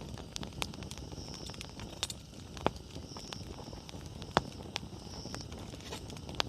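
Wood campfire burning, with a low steady rumble of flame and irregular sharp crackles and pops from the burning firewood. The loudest pop comes a little past halfway.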